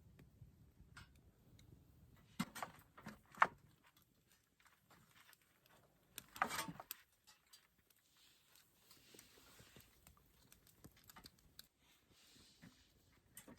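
Faint handling noises: a few sharp knocks and clicks about two and a half to three and a half seconds in, then a short scrape or rustle about six and a half seconds in.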